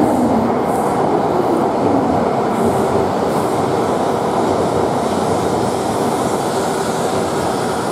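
Shinkansen train running at a station platform: loud, steady rail and wheel noise with a faint steady whine, easing slightly towards the end.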